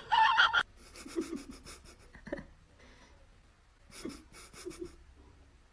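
Quick, rhythmic breathing sounds in two short bouts, about a second in and about four seconds in, after a brief louder sound at the very start.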